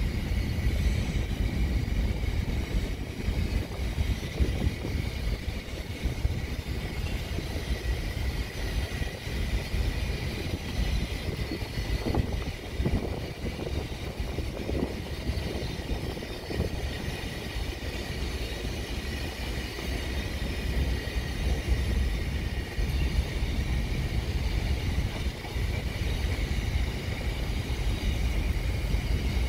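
Container freight train rolling past on its descent, its wagons' wheels giving a steady low rumble on the rails, with a run of knocks in the middle. A faint steady high whine sits over the rumble.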